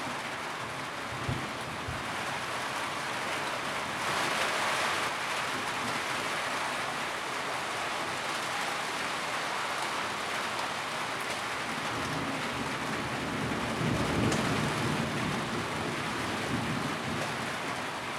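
Steady rain drumming on a tin roof, a dense continuous patter. Low rumbles swell about two-thirds of the way through.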